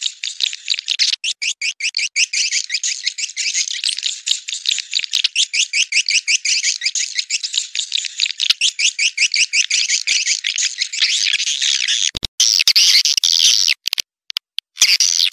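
Swiftlet call recording of the kind played to lure swiftlets into nesting houses: a loud, rapid twitter of about ten chirps a second. Near the end the sound cuts out abruptly several times.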